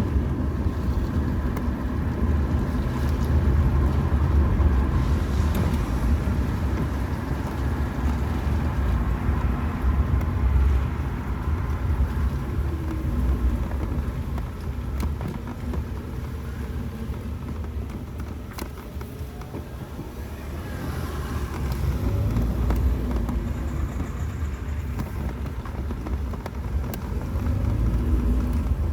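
Car driving on a rain-wet road: steady low engine and tyre rumble, easing off in the middle and building again near the end.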